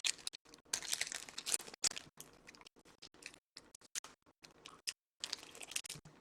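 Trading cards and their packaging being handled: crinkling rustles with many small clicks and taps, loudest about a second in and again near the end.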